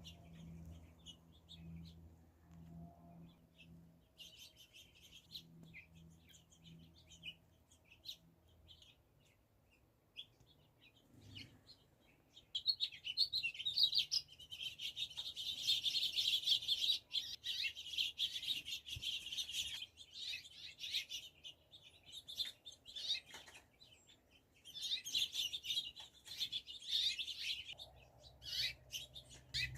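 Starlings and sparrows chirping and chattering: scattered calls at first, then a dense, busy stretch from a little before halfway to about two-thirds through, and another burst near the end. A faint low hum sits underneath during the first several seconds.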